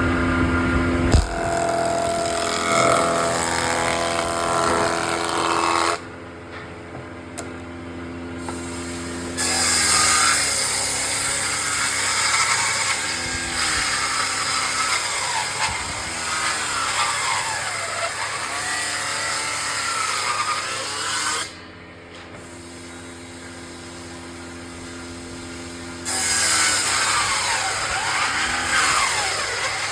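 Table saw cutting wood, the blade's pitch dipping and recovering again and again as it takes load. Twice it runs free between cuts, quieter and with a steady hum.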